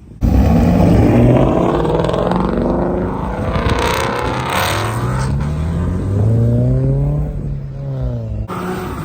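A car engine and loud exhaust accelerating hard, its pitch climbing in long sweeps and then falling away near the end. The sound starts abruptly just after the beginning.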